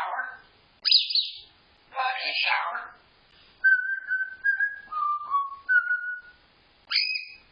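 Parrot calls: two harsh squawks, then a run of short whistled notes, and a high two-toned call near the end.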